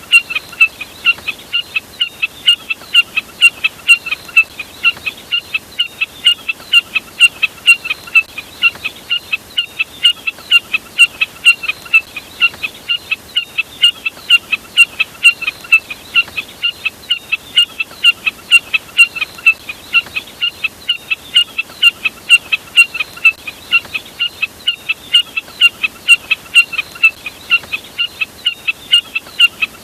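Jack snipe calling: an unbroken series of short, sharp, high notes, about three a second, evenly repeated.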